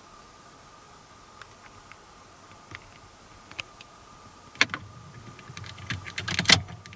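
Mechanical clicking in a car: a few scattered clicks, a sharp click about two-thirds of the way in, then a short burst of rapid clicking and rattling near the end, over a faint steady high hum.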